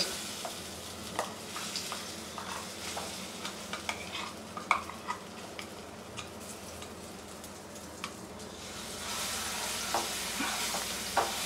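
Spiced chana dal paste frying in hot oil in a non-stick kadai: a steady sizzle with scattered taps and scrapes as the paste is scraped in and stirred with a metal spatula. The sizzle grows louder near the end as the stirring spreads the paste through the oil.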